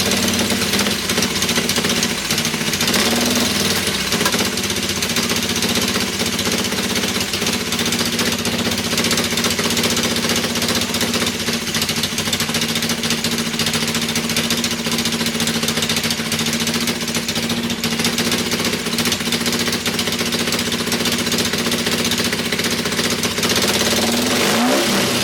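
Nissan 240SX's KA24 2.4-litre inline-four running at a raised, unsteady speed on its first startup, with the revs rising briefly about three seconds in and again near the end as it tries to find its idle.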